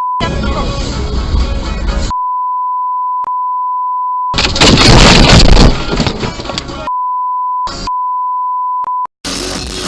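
Censor bleeps: a steady high beep tone, played several times for a second or two each, cutting straight into dashcam audio. About halfway through, between bleeps, comes a loud noisy stretch of a second or two, the loudest part. Near the end the sound switches abruptly to music.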